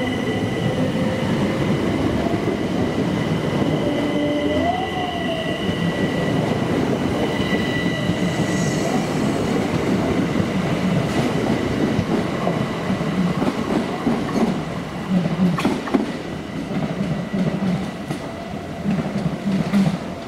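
Electric multiple-unit passenger train moving through the station. A steady high electric whine and a lower tone rise briefly about five seconds in. In the second half the wheels click in a slow, regular rhythm over rail joints.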